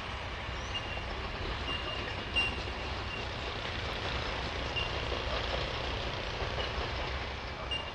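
A train running past with a steady low rumble, and short high-pitched squeaks every second or so.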